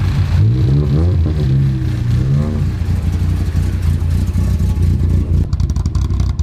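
Volvo 940 rally car's engine blipped twice, each rev rising and falling, then running steadily. Near the end it takes on a fast, even exhaust pulse.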